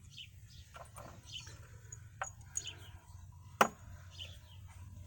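A few light clicks and knocks of small fastener hardware, lock washers and nuts, being handled. The sharpest click comes about three and a half seconds in.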